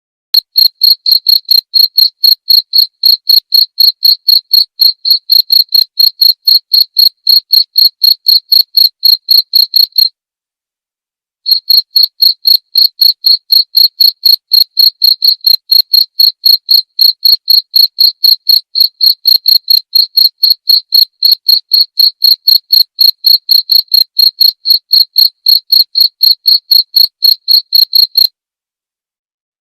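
Cricket chirping in a steady, even rhythm of about three high chirps a second. It pauses briefly about ten seconds in, then carries on until it stops shortly before the end.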